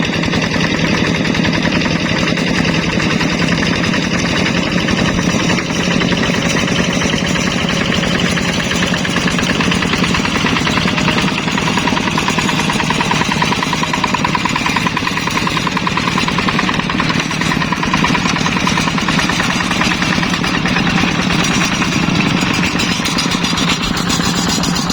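Hand tractor's single-cylinder diesel engine running steadily under load, a fast, even chugging.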